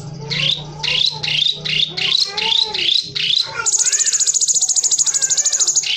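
Cucak cungkok singing in its rapid 'ngebren' style: a run of quick rising chirps, then, about three and a half seconds in, a fast, high, buzzing trill that runs on.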